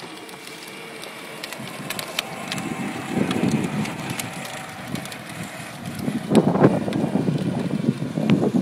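John Deere Gator 12-volt ride-on toy driving, its electric motors running and plastic wheels rolling over the ground. The rolling grows louder about three seconds in and is loudest around six seconds in.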